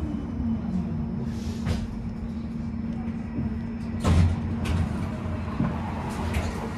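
Tram interior: the electric traction motor's whine falls in pitch and fades about a second in as the tram slows, over a steady electrical hum, with a sharp clunk about four seconds in.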